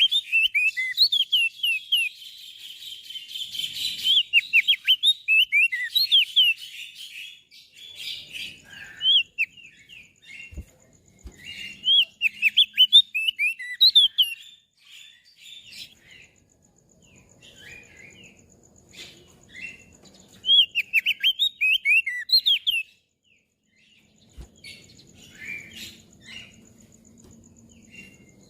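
Crested white-eye (opior jambul) singing: rapid runs of short, high chirps in bursts of a few seconds with pauses between, growing sparse and faint in the last few seconds.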